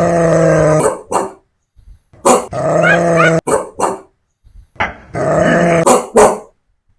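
A dog talking back in drawn-out grumbling growl-howls, three long ones, each followed by one or two short sharp barks.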